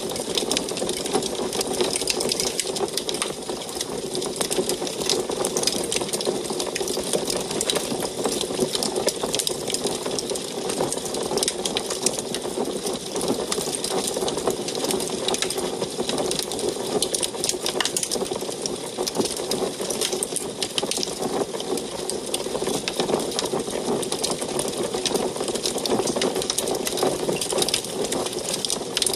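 Wood fire burning in an antique wood stove: a steady rushing flame noise with dense, continuous crackling and small pops.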